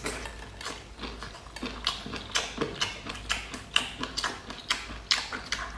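Close-miked eating: chewing and mouth sounds, an irregular run of short wet clicks and smacks, a few each second.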